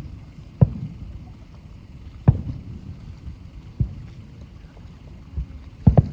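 Aerial firework shells bursting: a series of deep booms, each trailing off in a low rumble. The loudest come just over half a second in and a little past two seconds, with a quick double boom near the end.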